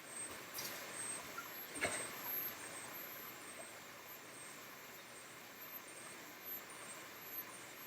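Faint steady hiss with a few light clicks and one sharper knock about two seconds in.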